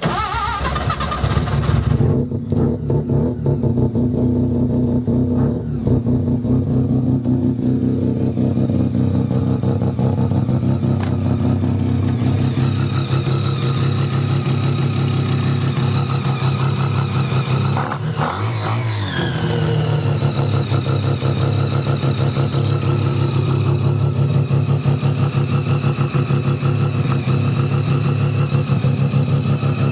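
Mazda 12A rotary engine running at a steady idle, revved once in a quick climb about eighteen seconds in, then dropping back to idle.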